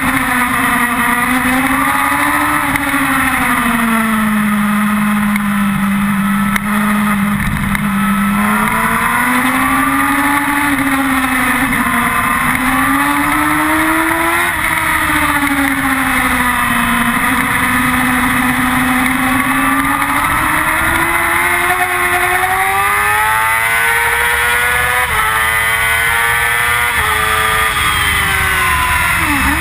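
Yamaha R6's inline-four engine running hard on a race track, heard from an onboard camera. Its note rises and falls in long swells through the lap, climbs in steps late on, and dips sharply near the end.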